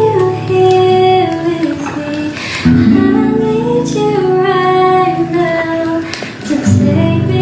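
A female voice singing long held, wavering notes over strummed acoustic guitar chords, with new phrases coming in twice.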